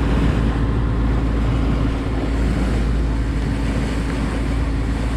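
Tour boat's engine running steadily under way: a constant low drone with a steady hum, over a rush of wind and water.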